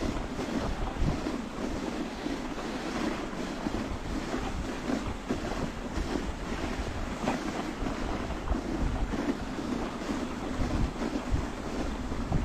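Dog sled moving along a trail: a continuous rushing hiss of the sled with wind buffeting the microphone, broken by frequent irregular bumps and knocks.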